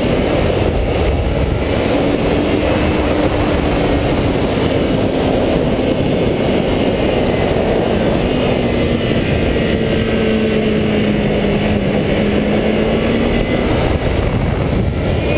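Motorcycle riding at speed: heavy wind rush over the microphone with a steady engine note underneath that slowly sags in pitch, then rises again near the end.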